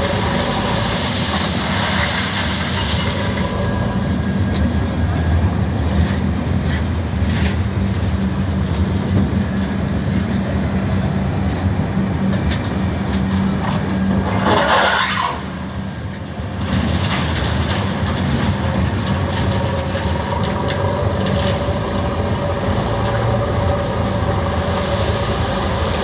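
Passenger train hauled by a WAG-9 electric locomotive running, a steady loud rumble with a low hum. About fifteen seconds in there is a brief louder rush, then the level dips for a moment before the running noise returns.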